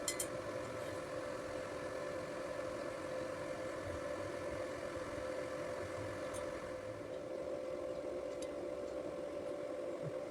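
A machine running with a steady hum and a constant mid-pitched tone, with a few faint ticks.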